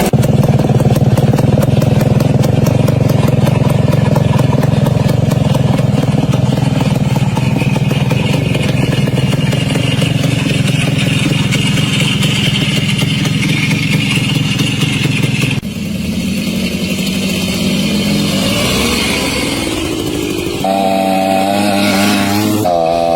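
Minsk 125 single-cylinder two-stroke motorcycle engine running steadily. About two-thirds of the way through the sound changes, and near the end the engine note wavers in pitch.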